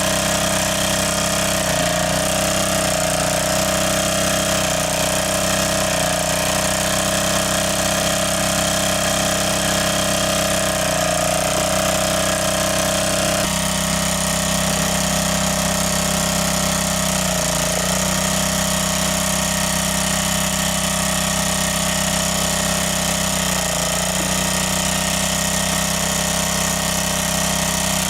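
A motor or engine running steadily, its pitch shifting suddenly about halfway through.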